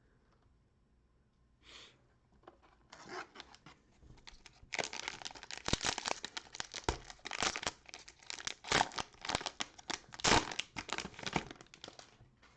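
Cellophane wrapper of a Prizm basketball card cello pack being torn open and crinkled. It starts about three seconds in and turns into busy crackling from about five seconds until near the end.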